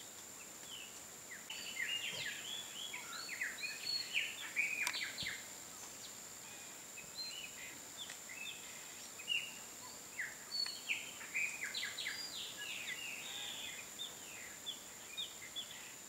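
Birds chirping: many short, high, overlapping notes in two busy spells, starting about a second and a half in and again about nine seconds in, over a steady high-pitched tone.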